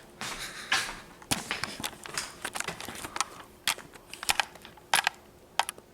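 Irregular light clicks, taps and brief rustles of someone stepping onto and standing on a bathroom scale, with a faint steady hum in the second half.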